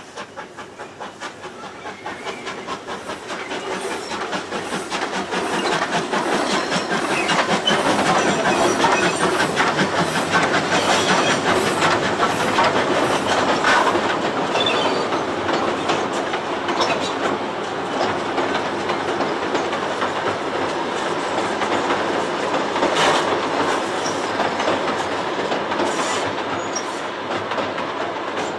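Passenger train hauled by steam locomotive W22 crossing a steel girder bridge, its wheels clattering rhythmically over the rail joints. It grows louder over the first six seconds, then runs steadily as the carriages roll past.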